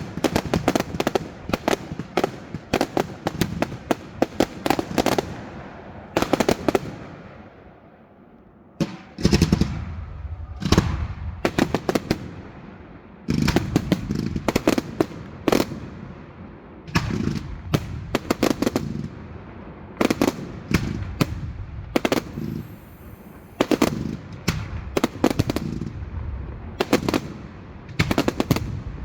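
Fireworks going off in rapid volleys of sharp cracks and bangs, with rumbling echoes between them and a brief lull about eight seconds in.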